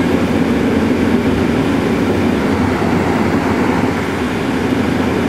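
Steady engine and road rumble inside a moving Honda car's cabin.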